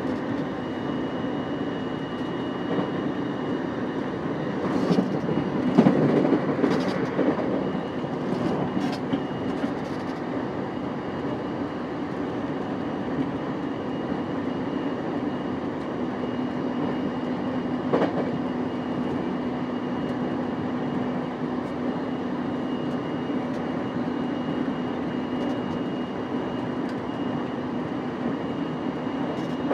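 Running sound inside a JR East E233-5000 series electric train cruising at speed: a steady rumble of wheels on rail with a constant hum. A louder spell of rattling and clicks comes about five to nine seconds in, and a single sharp click about eighteen seconds in.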